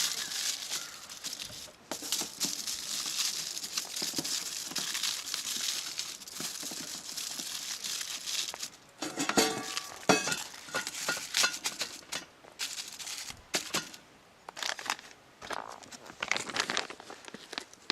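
Crinkling and rustling of something being handled, with scattered clicks and knocks; busiest in the first half, sparser toward the end.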